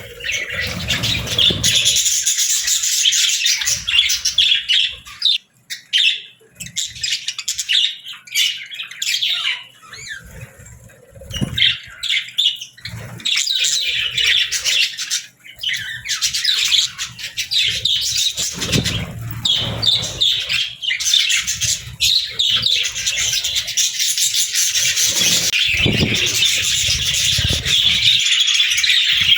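A flock of budgerigars chattering and chirping in a dense, rapid warble, with brief lulls in the first half. A few low thumps come in about two-thirds of the way through.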